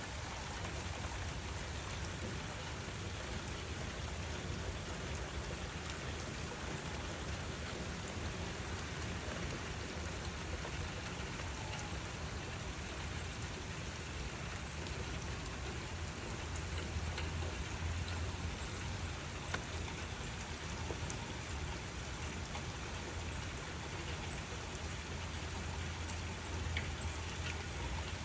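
Steady rain falling, an even hiss with scattered individual drop ticks, over a low rumble that swells twice, about two-thirds of the way in and near the end.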